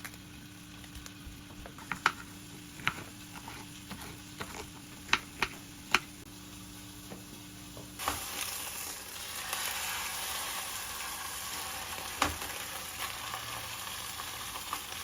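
A few sharp clicks and knocks of kitchen utensils, then about eight seconds in a pan starts sizzling steadily as food fries in hot oil.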